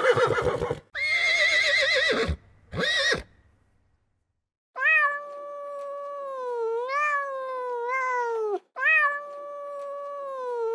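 A quavering animal call in three short bursts. After a pause of about a second and a half, a cat gives two long, drawn-out meows; the first lasts about four seconds and dips and rises in pitch.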